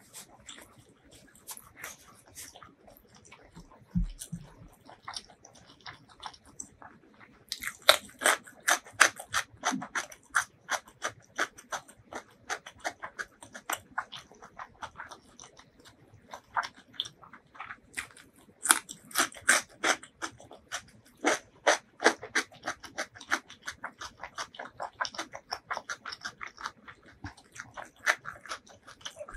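Close-miked chewing of raw cucumber: crisp, wet crunching clicks, sparse for the first several seconds, then dense and steady through the rest.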